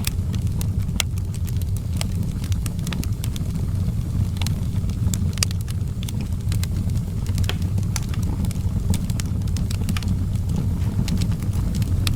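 Wood fire in an outdoor fireplace burning, with frequent sharp crackles and pops, several a second at irregular intervals, over a steady low rumble.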